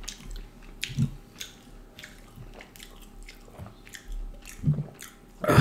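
Close-miked chewing and biting of duck curry and rice-flour flatbread: scattered wet mouth clicks and smacks, with one louder, noisy sound near the end.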